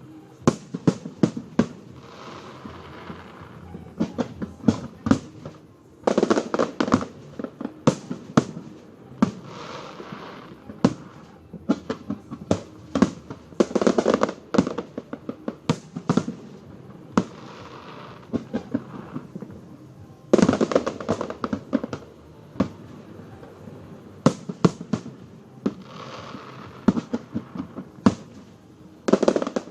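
Fireworks display: a continuous run of sharp bangs and crackles, with denser, louder volleys about every seven seconds.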